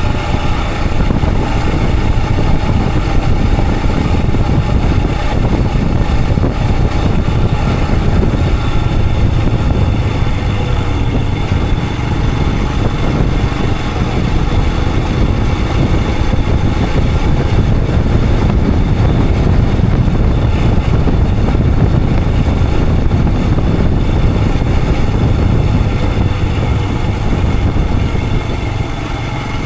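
Royal Enfield Himalayan 411's single-cylinder engine running steadily as the motorcycle rides along, picked up by a camera mounted on the bike or rider. It is a little quieter near the end.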